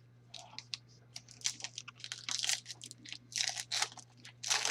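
Trading cards and their pack wrappers being handled: an irregular string of short crinkles, rustles and clicks.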